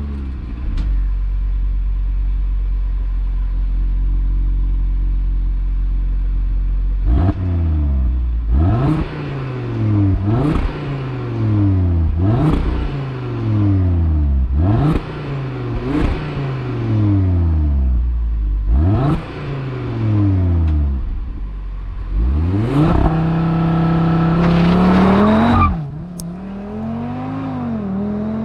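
Audi RS3's turbocharged 2.5-litre inline-five engine idling steadily, then revved sharply about seven times, each rev falling back to idle. It is then held at high revs for about three seconds before dropping suddenly, followed by a few small blips.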